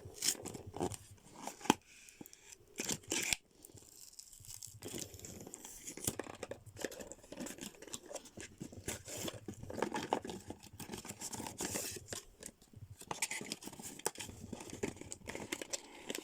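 A toy's cardboard box and its packaging being torn and pulled open by hand: tearing and crinkling with scattered sharp clicks and snaps, a few louder ones in the first few seconds.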